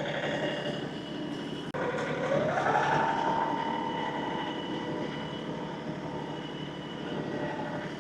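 LS XR315 compact tractor's engine running steadily, its pitch rising a little after about two seconds and holding higher as it works the loader with a grapple load of cattails.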